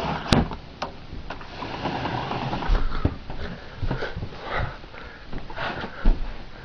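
Footsteps crunching through fresh snow, about two steps a second, with a few low bumps of wind on the microphone.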